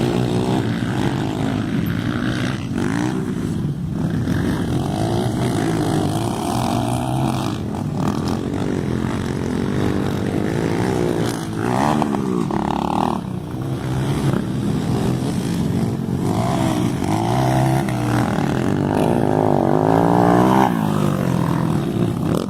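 Motocross dirt bikes racing on a track, their engines revving up and dropping back again and again as the riders work the throttle and shift gears, the pitch rising and falling throughout.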